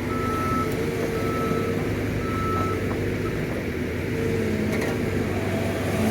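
Cat 313 excavator's diesel engine running steadily as it works, with a faint alarm beeping about once a second.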